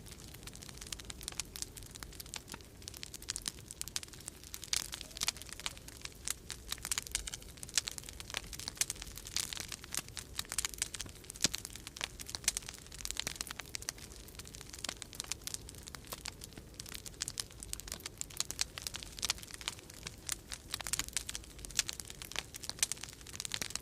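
Wood fire crackling in a fireplace, with frequent irregular sharp pops and snaps, over a low steady rumble of winter storm wind.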